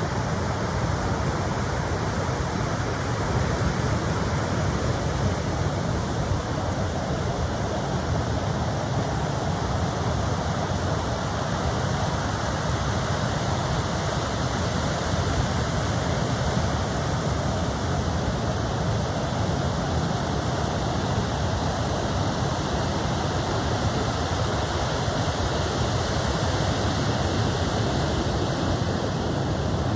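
Steady, even rush of ocean surf, with no single wave break standing out.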